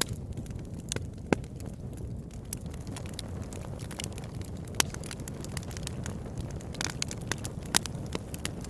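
Campfire crackling, with irregular sharp pops scattered through it over a steady low rumble; the loudest pops come about a second in, near the middle, and near the end.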